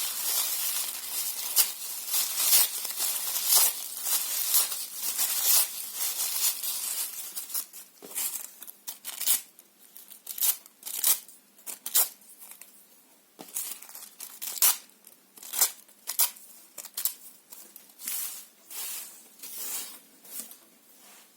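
Paper being torn and crumpled, close up: a long stretch of continuous ripping for the first several seconds, then short separate tears and crinkles.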